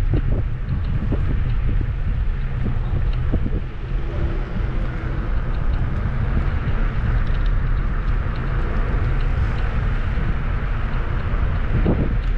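Wind buffeting the microphone on a moving Kugoo G2 Max electric scooter, a steady low rumble with a few short knocks near the start and near the end.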